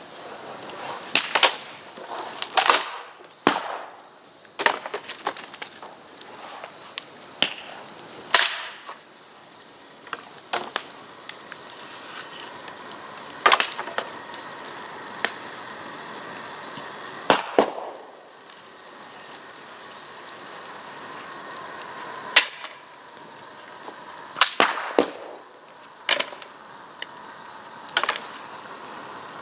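Bamboo burning in an open fire: constant crackling and hissing, broken by about a dozen sharp, loud pops as bamboo sections burst in the heat. A thin, steady high whistle sounds for several seconds in the middle.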